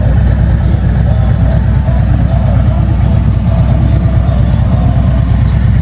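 Harley-Davidson Road Glide's Milwaukee-Eight 114 V-twin engine running with a loud, steady, deep rumble.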